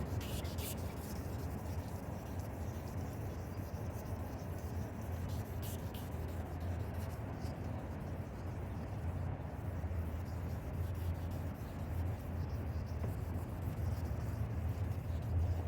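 Steady rubbing of 2000-grit sandpaper over a plastic headlight lens, the final fine sanding pass of a headlight restoration.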